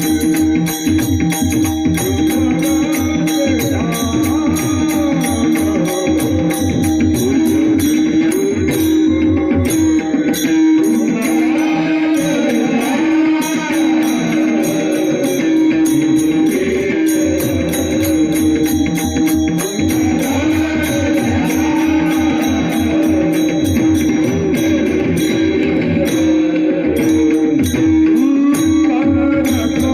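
Varkari kirtan singing: a male voice singing over a steady drone, with pakhawaj drum strokes and small hand cymbals (taal) ringing in a quick, even rhythm.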